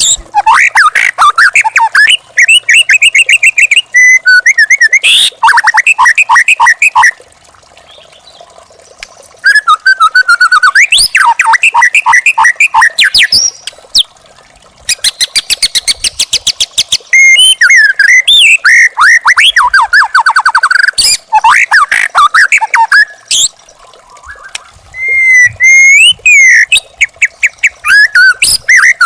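A young wild white-rumped shama (murai batu) singing loudly: phrases of fast repeated notes and rising and falling whistles, broken by a few short pauses.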